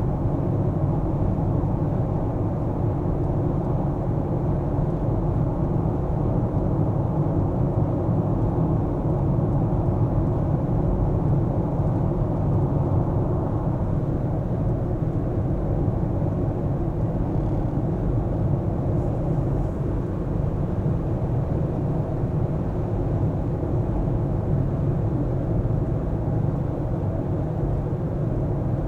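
Car driving through city streets: a steady low rumble of road and engine noise with no sudden events.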